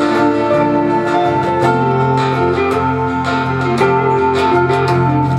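Acoustic guitar played with plucked, strummed chords.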